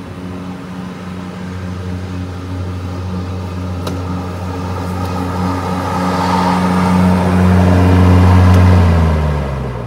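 EGO 56-volt Select Cut battery lawn mower running with its blade spinning, a steady hum that grows louder. About nine seconds in it is switched off and the motor and blade wind down, falling in pitch.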